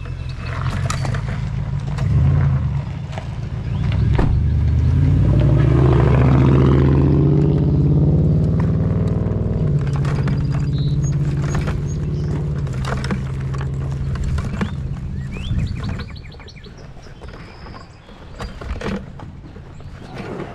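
A vehicle engine running while driving, its pitch climbing as it picks up speed through the middle and then easing back. About sixteen seconds in the engine sound drops away, leaving a few bird chirps.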